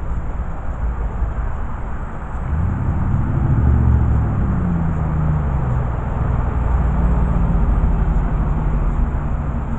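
A motor vehicle's engine droning low over a steady rumble, swelling about two and a half seconds in and dropping slightly in pitch midway.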